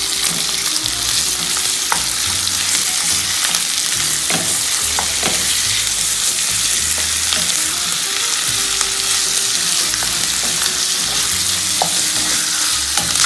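Marinated chicken pieces and chopped onions sizzling steadily in a hot frying pan as a wooden spatula stirs them, with scattered light scrapes and clicks of the spatula against the pan.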